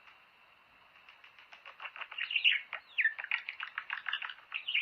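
Budgerigars chattering and warbling: a quick run of chirps and short whistled glides that starts after about a second of quiet.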